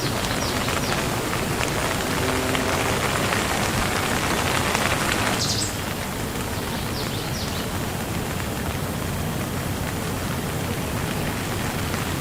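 Steady rain falling, an even hiss, which drops suddenly to a softer level about five and a half seconds in.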